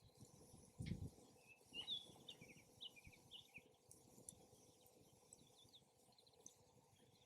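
Faint outdoor ambience: a small bird chirps a quick run of short notes in the first few seconds, over faint crackling from a campfire. About a second in, a brief low rumble is heard, typical of a gust of wind on the microphone.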